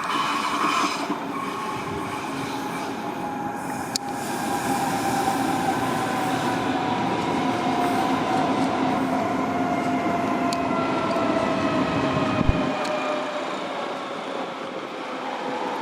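Train running through a railway station, with a whine that falls slowly in pitch over several seconds and a single thump near the end.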